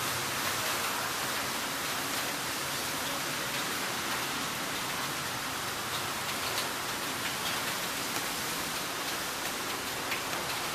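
Heavy rain falling steadily: an even hiss with a few faint drip ticks scattered through it.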